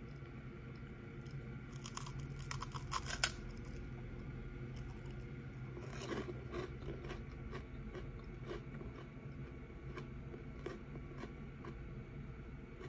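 Close-up crunching and chewing of a crisp cracker-like snack: a run of sharp crunches about two to three seconds in, another crunchy bite around six seconds, then quieter chewing.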